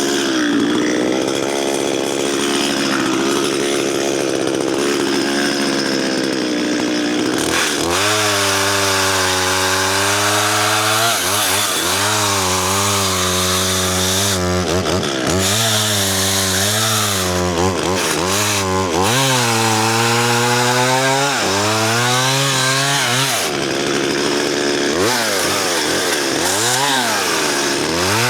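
Two-stroke chainsaw cutting through a dead spruce log at high throttle, its engine note rising and falling over and over as the chain bogs in the wood and picks up again. The chain is dull, so the saw has to be revved much harder than usual to cut.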